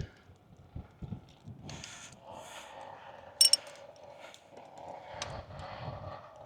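Wrench working on the antenna mount's bolts and lock nuts: scattered metal clicks and scrapes, with one sharp ringing metallic clink about three and a half seconds in.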